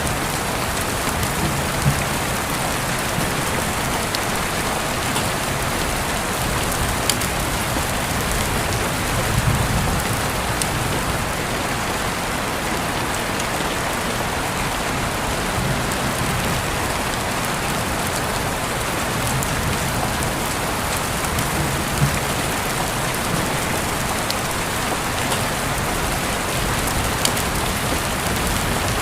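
Steady rain falling, with scattered individual drops ticking and a few soft low swells.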